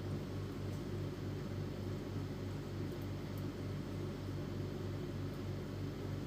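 Epson L310 inkjet printer running its internal process, a low steady mechanical hum that throbs evenly about three times a second. It is typical of the printer's head-cleaning cycle.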